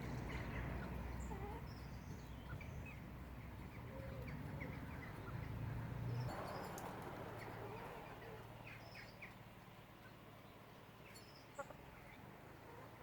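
Starlings chirping in short scattered calls, with a few soft hen clucks and a low rumble in the first half.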